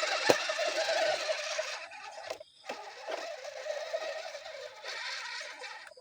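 RC crawler's electric motor and gearbox whining as the truck drives, its pitch wavering with the throttle, with a sharp click just after the start. It cuts out briefly about two and a half seconds in, then picks up again more quietly.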